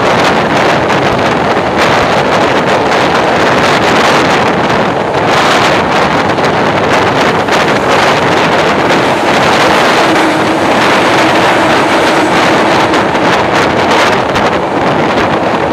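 Train running through a railway tunnel: the loud, steady rush of wheels on rails and moving air, with wind buffeting the microphone at the open coach door.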